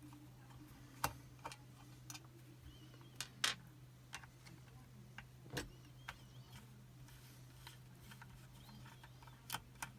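Scattered light metallic clicks and taps from handling a Chubb Detector lever lock and its picking tools, about eight over the stretch, over a steady low hum.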